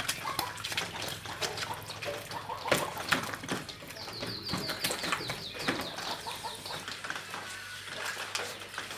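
A rapid run of short, high chirps, typical of a small bird, for about two seconds midway, over irregular knocks and splashing of water.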